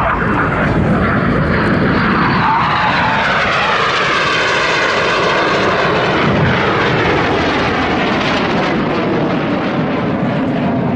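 BAE Hawk jet trainers, each with a single Adour turbofan, flying low and fast past the listener, a loud continuous jet roar. The tone sweeps as the aircraft pass, most clearly around four to six seconds in.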